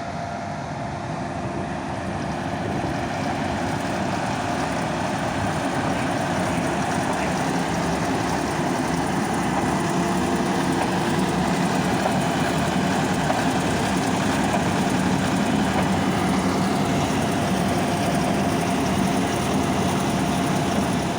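Large agricultural diesel engine running steadily, growing louder over the first several seconds as the machine comes closer, then holding level.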